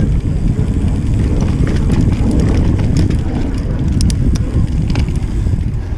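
Wind buffeting the microphone of a moving on-board camera, a loud steady rumble, with scattered small clicks and rattles, most of them a few seconds in.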